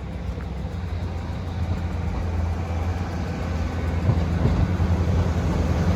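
An engine running with a low, steady hum that grows gradually louder.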